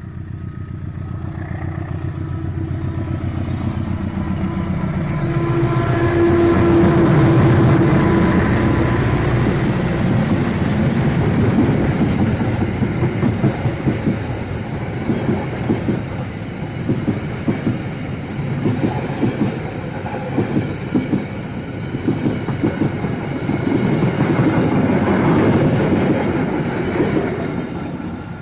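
Passenger train hauled by a CC201 diesel-electric locomotive running past, loudest about seven seconds in. It is followed by a long run of carriage wheels clattering over rail joints in repeated clusters of clicks, fading near the end.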